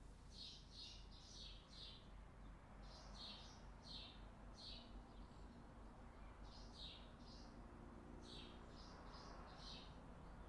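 Faint bird chirping: short high notes repeated in runs of three or four, with short pauses between the runs.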